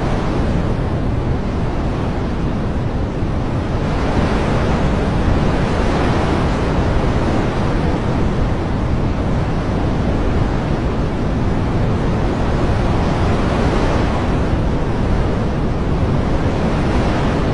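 Steady, dense rushing of natural ambience, rain or surf, swelling gently about twice and easing back.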